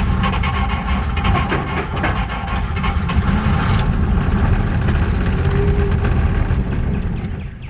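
The 1950 Oldsmobile 76's flathead six being cranked over by its starter without catching. The cranking fades and stops near the end.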